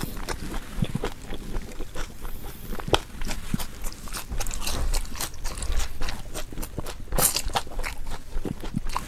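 A person chewing and biting food, with many irregular sharp crunches and clicks.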